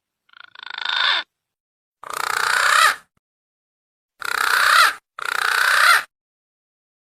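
Punai green pigeon calls from a bird-lure recording: four harsh, rasping calls, each about a second long and separated by short silences.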